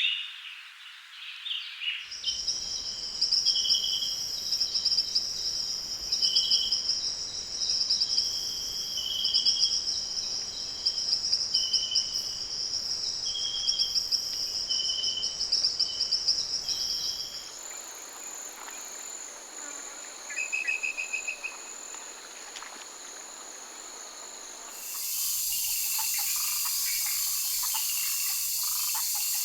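Rainforest ambience edited from several recordings: a steady high-pitched insect buzz with short bird calls repeating over it, then a quieter stretch with a single brief call, then a loud steady hiss with faint clicks about 25 seconds in.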